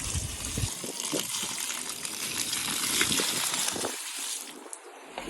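Water spraying and gushing steadily onto a mat as it is rinsed; the spray stops about four and a half seconds in.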